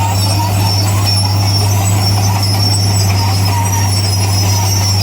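Crawler bulldozer working: its diesel engine holds a steady low drone, overlaid with thin high-pitched squeals from the steel tracks.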